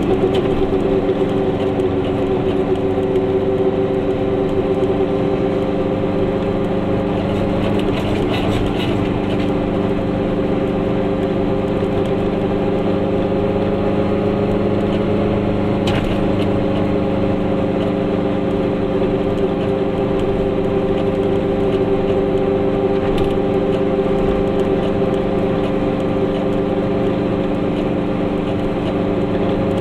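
A Goggomobil's small air-cooled two-stroke twin engine running steadily as the car drives along, heard from inside the cabin over road noise. Its pitch rises a little partway through and then eases back.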